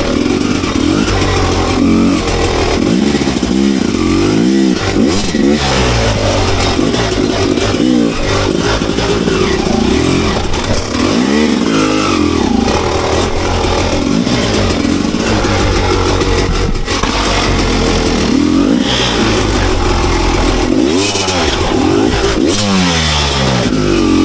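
Enduro motorcycle engine revving up and down over and over, its pitch rising and falling every second or two, with occasional knocks.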